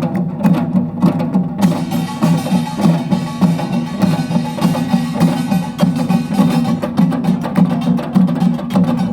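Utdari-style samulnori percussion ensemble playing a fast, driving rhythm: janggu and buk drums struck in quick, even strokes under the metallic clatter of the kkwaenggwari and jing gongs, which thickens about a second and a half in.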